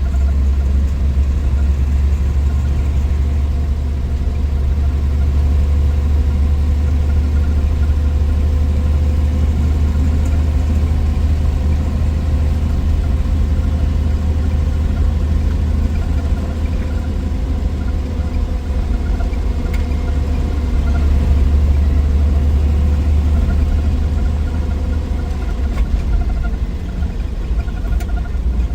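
1963 Willys Wagon's 230 Tornado overhead-cam straight-six running steadily on the road, a deep even drone with road noise, swelling slightly about three-quarters of the way through.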